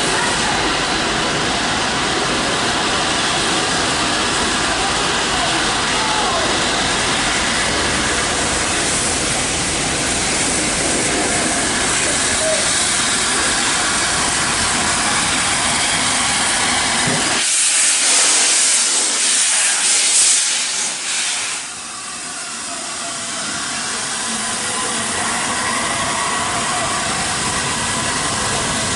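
Steam hissing from the standing Flying Scotsman steam locomotive, with a louder, sharper blast of hiss about seventeen seconds in that lasts some four seconds before the steadier hiss resumes.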